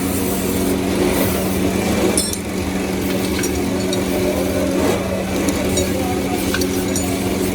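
Machinery running with a steady hum, and a few short metallic clinks scattered through it.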